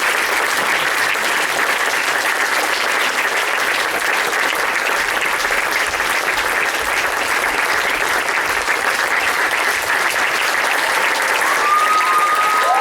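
Audience applauding steadily at the end of a stage performance: a dense, even clatter of many hands clapping.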